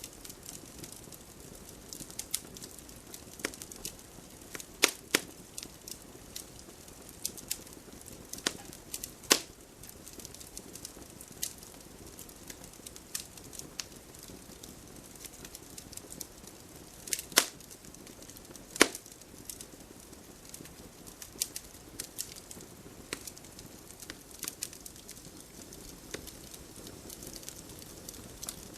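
Wood campfire crackling, with scattered irregular sharp pops, a few much louder than the rest, over a soft steady hiss.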